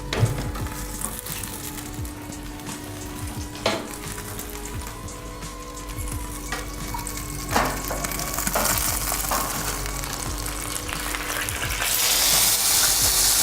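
Hot fat sizzling in a metal pan, with three sharp knocks of cookware; the sizzle grows louder near the end.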